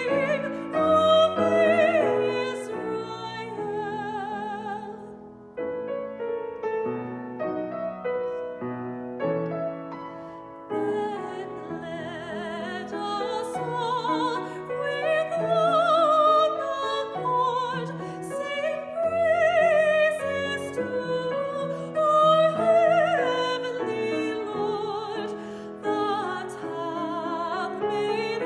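Classical soprano singing slow, sustained lines with a wide vibrato, accompanied by piano.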